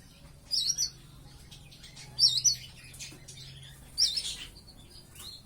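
Young white-eye (pleci) calling: three short, quick wavy chirps spaced about two seconds apart. It is a bird of about five months that is starting to learn its song.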